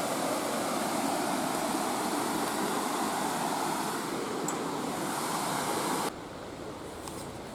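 Steady rushing wind noise on a motorcycle rider's helmet microphone while riding, dropping abruptly in level about six seconds in.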